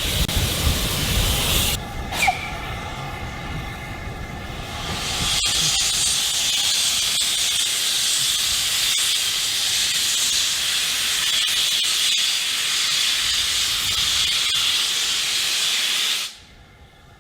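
Steam locomotive hissing, with steam escaping under pressure. A brief lull comes about two seconds in, with a short falling squeal. The hiss then returns louder and higher about five seconds in, runs steadily, and cuts off suddenly near the end.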